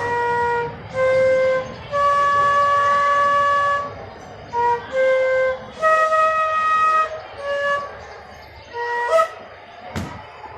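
Flute playing a slow run of separate held notes in an alankar (scale-exercise) pattern, one note held about two seconds. A sharp click near the end.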